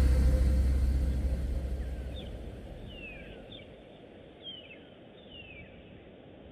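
The tail of the music fades out over the first two seconds, leaving faint outdoor bush ambience with several short, descending whistled bird calls.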